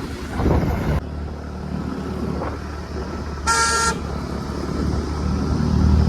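A vehicle horn sounds once, a short beep of about half a second, over the steady low rumble of a vehicle's engine and road noise.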